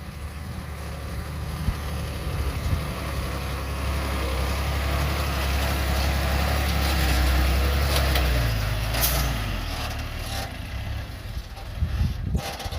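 Heavy diesel engine of earthmoving machinery working, growing louder toward the middle and then easing. There is a short hiss of air about nine seconds in.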